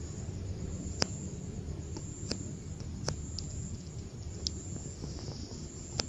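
Wind buffeting the microphone as a steady low rumble, with a handful of sharp clicks at uneven intervals and a faint steady high-pitched tone.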